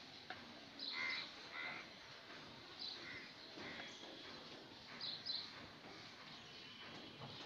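Faint bird calls in the background: several short calls at irregular intervals over a low hiss.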